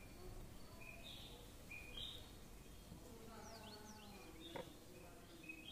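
Faint birds chirping: short high notes and a few quick falling whistles, with a single sharp click about four and a half seconds in.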